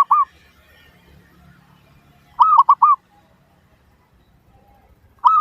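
Zebra dove (perkutut) cooing in short phrases of three or four quick, arched notes, each phrase opening with a slightly longer note. One phrase comes about two and a half seconds in, and another starts near the end.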